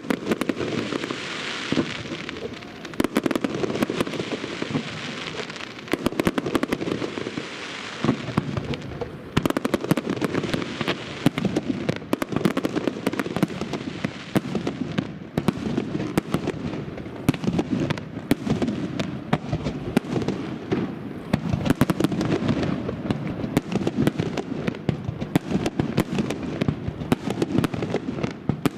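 Fireworks display: a dense, continuous run of bangs and crackles, with a hiss in places.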